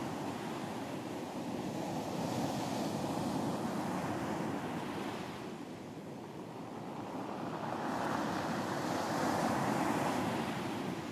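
Ocean surf breaking on a beach, the wash swelling and fading twice, about six seconds apart.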